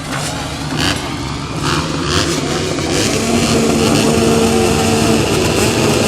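Racing motorcycle engines running loudly. About three seconds in, one engine settles into a steady held note that slowly grows louder.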